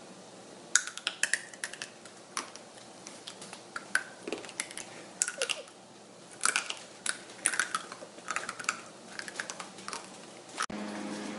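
Crunchy snack being bitten and chewed close to the microphone: irregular clusters of sharp crunches, which stop abruptly near the end.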